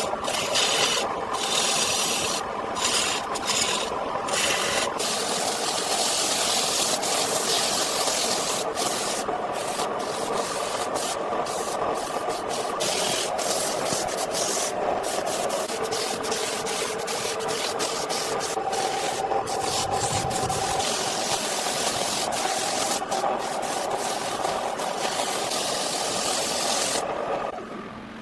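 Wood being abraded by a tool: a continuous rasping, scraping hiss with a steady hum underneath, which drops away about a second before the end.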